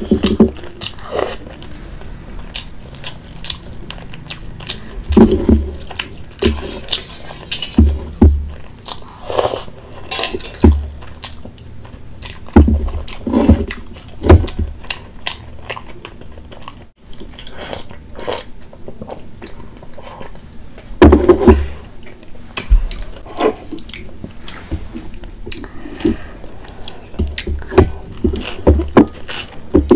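Close-miked eating sounds: irregular wet chewing and biting of fried momos dipped in spicy soup, then a bite into a soft malai chaap roll near the end.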